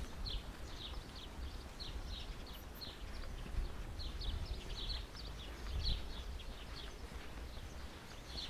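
Small birds chirping: many short, high chirps a few times a second, over a low outdoor rumble.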